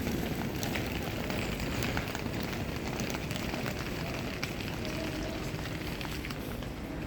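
Steady rain with many small ticks of drops hitting nearby surfaces.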